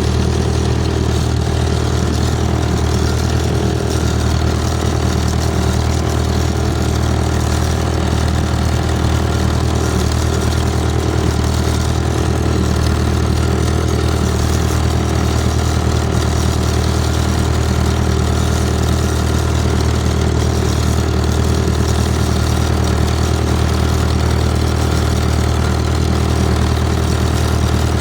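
Vintage farm tractor engine idling steadily at an even pitch.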